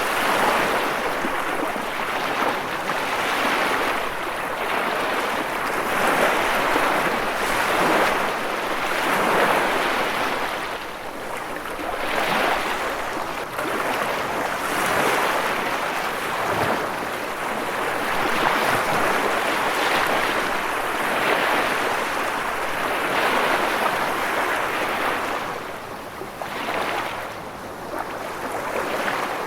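Ocean waves breaking and washing: a continuous rushing surf that swells and eases again and again.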